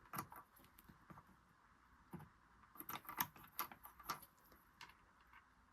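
Faint, irregular clicks and light rattling of sewing-machine bobbins being handled and tried against the machine, busiest in the middle.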